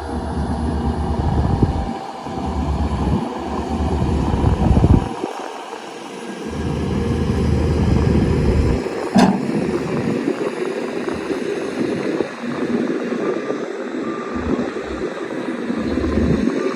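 Shantui DH17-C2 bulldozer's diesel engine running under load while pushing fill dirt, its level rising and falling, with a sharp knock about nine seconds in. Faint short beeps repeat near the end.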